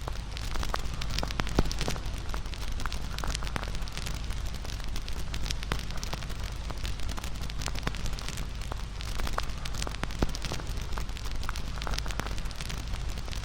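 Wood fire crackling, with irregular sharp pops over a steady low rush of the flames; one louder pop about a second and a half in.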